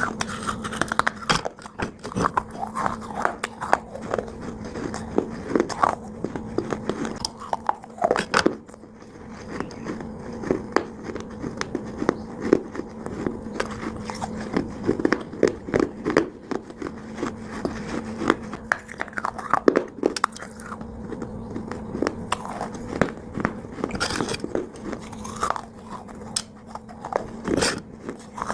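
Dry Multani mitti (fuller's earth clay) being bitten and chewed close to the microphone: many short, crackly crunches in an irregular stream.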